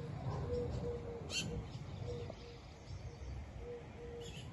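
A bird calling a steady series of short, low hooting notes on one pitch, about three a second, with a couple of brief high chirps from a small bird and a low rumble beneath.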